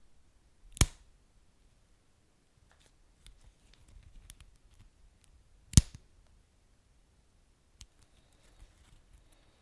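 Wood fire crackling: two sharp pops, about a second in and just before the six-second mark, with fainter small crackles scattered between and after.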